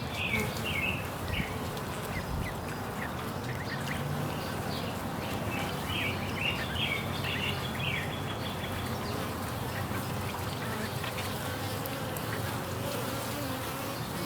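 Honey bees buzzing steadily. Two short bursts of high bird chirps cut in, one at the start and one about six seconds in.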